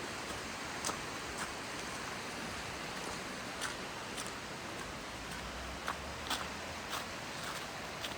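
Footsteps on a slippery outdoor path, a faint short step sound every second or so, over a steady hiss of outdoor noise.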